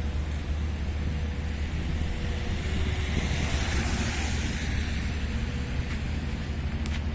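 Road traffic on a wet road: a vehicle's tyre hiss swells and fades about halfway through, over a steady low rumble.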